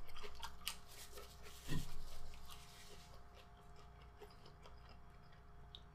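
Faint chewing and mouth clicks from a person eating, with a soft knock a little under two seconds in. After about three seconds it falls very quiet, leaving a faint steady hum.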